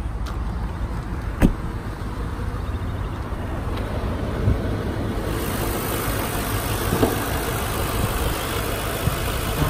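Audi S4's 4.2-litre V8 idling steadily, a normal-sounding idle with no rattling noises. A single sharp click comes about a second and a half in, and the engine sound turns brighter about five seconds in as it is heard up close in the open engine bay.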